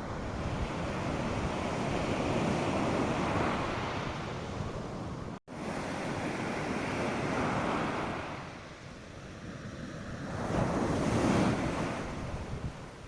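North Sea surf breaking on the beach. The wash swells and ebbs, with the loudest surges about three seconds in and again near the end, and wind is on the microphone. The sound cuts out completely for an instant about five seconds in.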